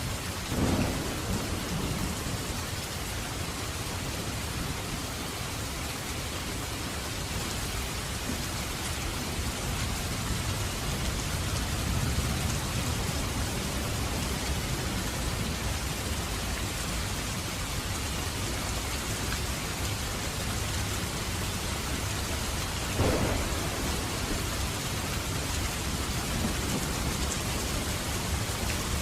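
Heavy rain falling steadily in a dense, even hiss. Two brief louder low thuds stand out: one under a second in, with a short low rumble after it, and another late on.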